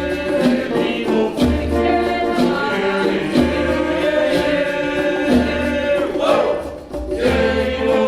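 A community choir singing a cappella-style African choral music in sustained harmony, with a low pulse recurring about every two seconds beneath the voices.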